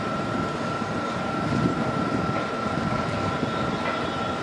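Train running at a station platform: a steady low rumble with a thin, steady high-pitched whine over it.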